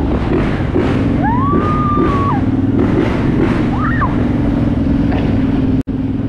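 Dirtbike engine running steadily with wind noise across the camera microphone. Two short gliding tones rise and fall over it, one about a second in and a briefer one near four seconds, and the sound cuts out for an instant near the end.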